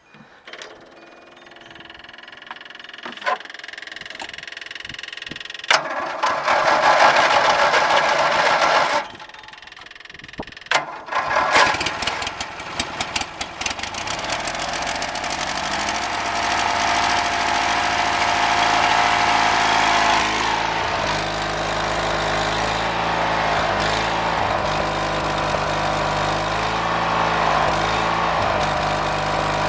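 Briggs & Stratton 12.5 twin engine on a Sears Craftsman yard tractor being started: it is cranked for about three seconds, stops, then catches with a few sharp pops about halfway through and keeps running steadily, its pitch rising for a few seconds before it settles.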